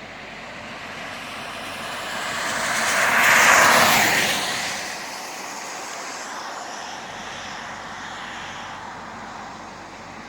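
A car driving past on the road, its tyre and engine rush swelling to a peak about three and a half seconds in and then fading away, leaving a lower steady rush of traffic.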